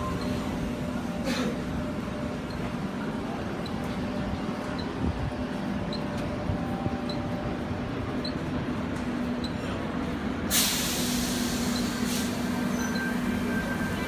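Sydney Tangara electric train at the platform: a steady low hum and rumble. About ten seconds in, a loud hiss of air starts suddenly and carries on.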